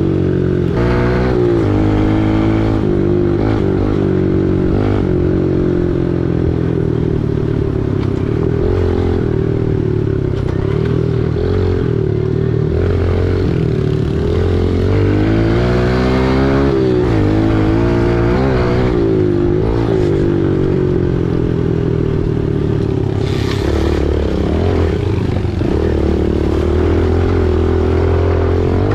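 Small single-cylinder four-stroke dirt bike engine running under way, its revs rising and falling several times as the throttle opens and closes. There is a brief rush of noise about three quarters of the way through.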